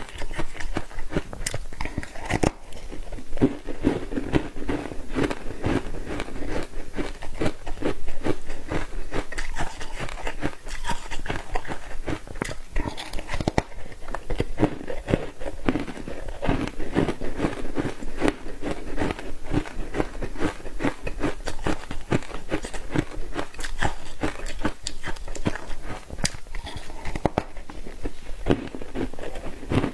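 Close-up crunching of ice being bitten and chewed: a dense, irregular run of sharp crunches that goes on without a break. The ice is dusted with green tea matcha powder.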